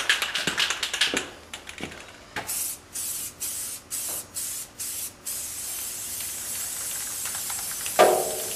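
An aerosol spray-paint can is shaken, its mixing ball rattling quickly for about a second. Then it sprays in about six short hissing bursts, followed by a steady spray of a few seconds. A brief loud sound comes near the end.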